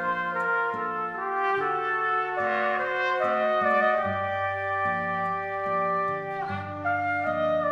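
Small brass ensemble playing: a trumpet-led melody over sustained harmony and a low bass line that steps from note to note.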